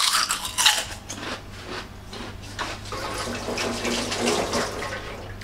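A crunchy bite into an oil-soaked fried snack stick close to the microphone, followed by irregular crunching as it is chewed.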